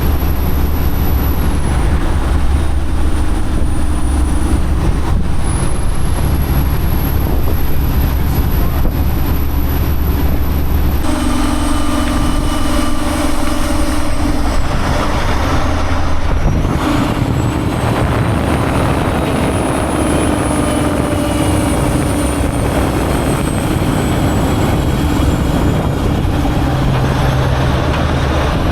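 Semi-truck engine running steadily while driving, with a low drone and road noise. The sound changes abruptly about eleven seconds in, and the low hum drops away.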